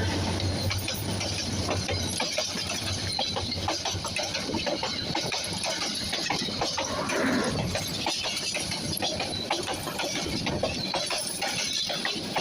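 A train passing, its wheels clattering over the rails in a dense, irregular run of clicks over a steady rushing noise, with a low engine hum that fades about two seconds in.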